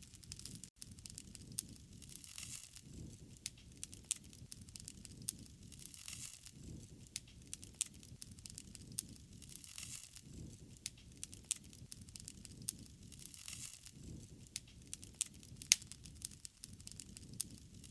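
Wood fire crackling, with many irregular sharp pops and soft low rushing swells every few seconds.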